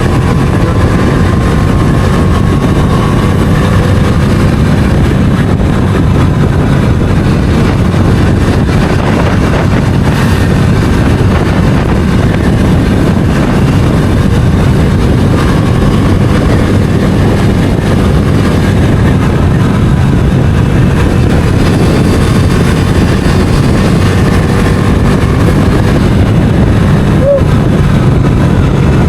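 Bajaj Dominar 250 single-cylinder engine running at a steady speed while riding, with heavy wind rush over the microphone.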